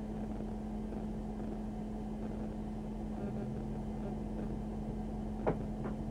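Steady hum of an idling patrol car heard from inside the car, with a constant low tone. Two sharp clicks come close together a little over five seconds in, the first the louder.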